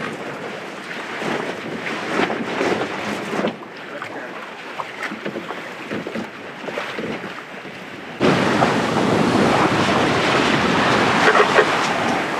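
Wind buffeting the microphone over the rush of sea water along the hull of a sailboat under way offshore. About eight seconds in the noise jumps abruptly louder.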